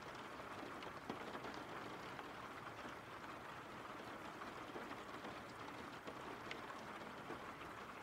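Steady rain falling: a soft, even hiss with scattered drops.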